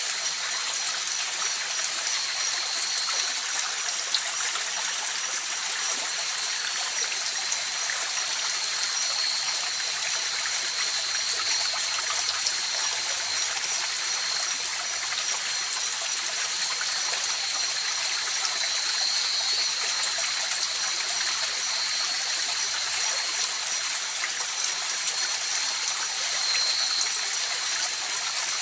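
River water flowing steadily, a continuous rush with no pauses. Two thin, high-pitched tones are held above the water throughout, and the higher one pulses rapidly.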